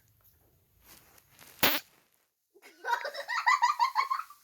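A short sharp squelch from farting slime (noise putty) squeezed in its tub, followed by a run of high-pitched giggling, about seven quick pulses a second.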